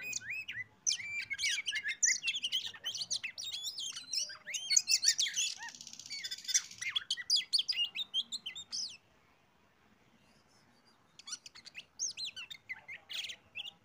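Oriental magpie-robin (kacer) singing a fast, varied run of whistles and chirps for about nine seconds, then falling silent briefly before a few shorter phrases near the end.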